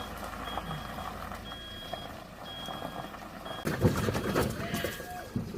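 A truck's reversing alarm beeping a single high tone about once a second. About two-thirds of the way in, a loud rumbling with knocks starts and covers it.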